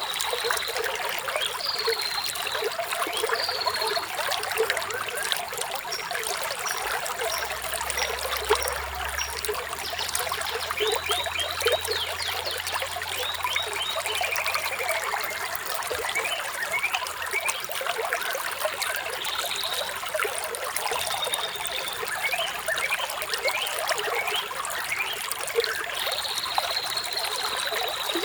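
Flowing water trickling steadily, with small birds chirping and trilling over it, including a long trill at the start and again near the end and a falling call partway through.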